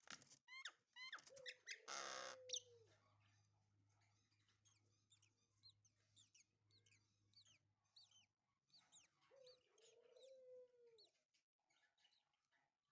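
Lovebirds chirping: many short, quick downward chirps, with two lower drawn-out calls and a brief noisy burst about two seconds in.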